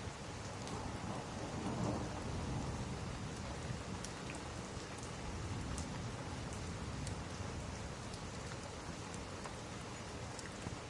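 Steady rain with a low roll of thunder that swells and fades about two seconds in, and scattered sharp little ticks over the top.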